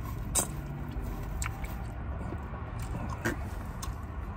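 Close-up eating sounds: a person biting into and chewing a sauce-coated chicken wing, with a few short wet mouth clicks and smacks, the sharpest about half a second in.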